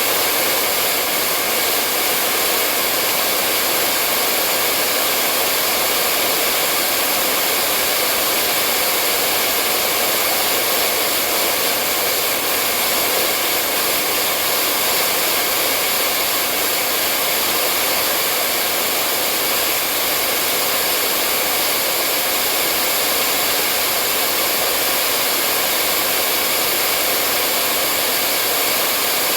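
Hair dryer blowing steadily: a constant hiss of rushing air with a faint whine, unchanging.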